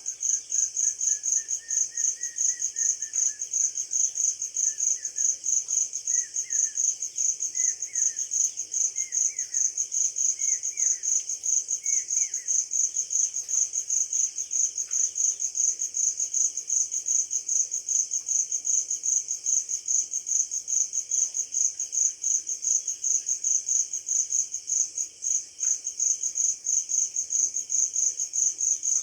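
Steady, rapidly pulsing chirping of insects, with a few faint short rising bird whistles during the first dozen seconds.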